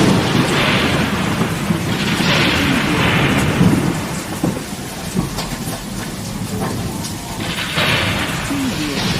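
Heavy rain pouring in a storm, with a low rumble underneath. The hiss swells louder three times, about a second, three seconds and eight seconds in.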